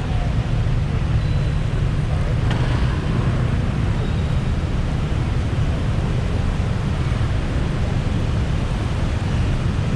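Steady rumble of road traffic on a busy city street, a continuous low roar of engines and tyres with no single vehicle standing out.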